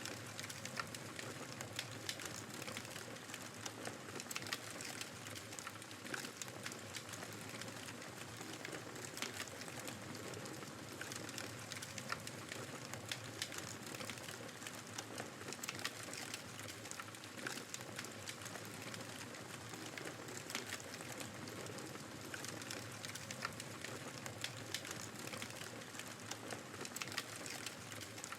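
Wood fire crackling in a fireplace, with many small irregular pops, over a steady rush of blizzard wind.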